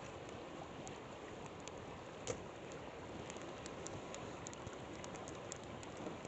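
Campfire crackling with scattered small pops and one louder pop about two seconds in, over the steady rush of a flowing river.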